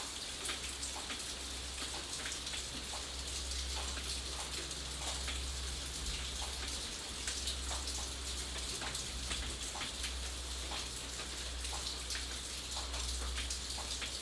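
Steady rain: a continuous hiss with many individual drops striking a surface, heard as scattered sharp clicks, over a low steady rumble.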